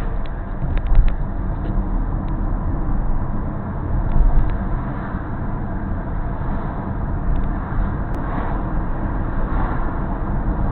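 Car on the move: a steady rumble of road and engine noise, strongest in the low end, with a few faint ticks.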